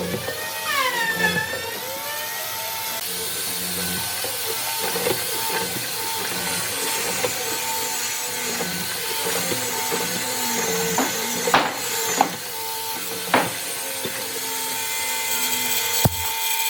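A power tool running steadily as it works wood, with a few sharp knocks about two-thirds of the way through and again near the end.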